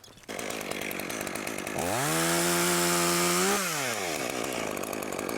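A two-stroke chainsaw running, revved up for about two seconds with its pitch rising, holding high and then dropping back to idle.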